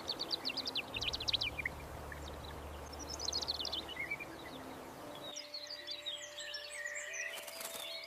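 Small birds chirping in quick runs of high, downward-sweeping notes over a steady outdoor noise, with soft background music underneath. About five seconds in the background changes and a busier mix of bird calls carries on.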